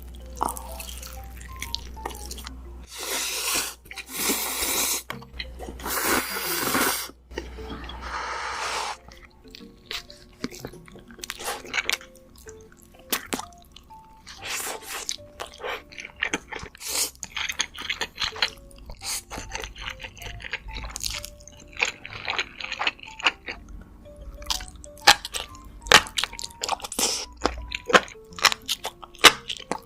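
Close-miked eating sounds: a few long, noisy bursts in the first several seconds, then a quick run of crunchy, wet chewing clicks. Soft background music plays underneath.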